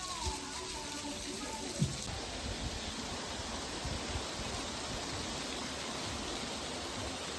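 Mountain valley stream rushing: a steady, even wash of water noise. A few notes of music fade out in the first two seconds.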